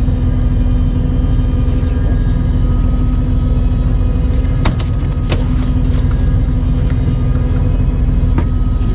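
A fishing boat's engine running steadily, a loud low drone with a constant hum, with two sharp clicks about halfway through.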